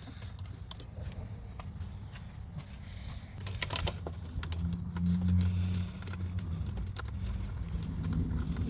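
Metal hand tools clicking and clinking against engine parts as fasteners are worked loose, a cluster of clicks a little past halfway. Under them runs a steady low rumble that swells for a second or so about five seconds in.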